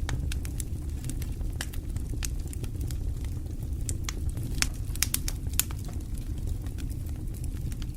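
Wood fire burning in a fireplace: a steady low rumble of the flames with irregular sharp crackles and pops, a few louder pops about halfway through.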